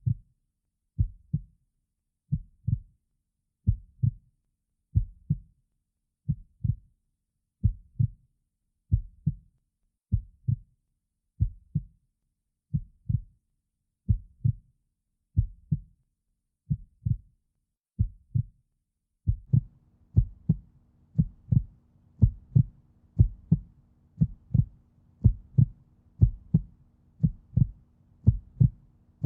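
A slow heartbeat-like rhythm of low double thumps, about one pair every 1.3 seconds. About two-thirds of the way in, a steady low hum comes in underneath and the thumps become louder.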